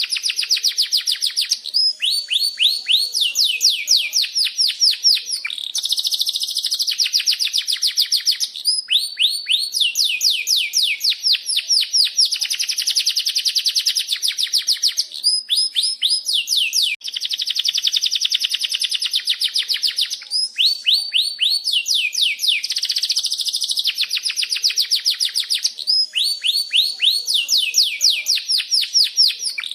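Domestic canary singing a long, continuous song. Series of rapid repeated chirping notes alternate with fast rolling trills, and the phrase changes every second or two.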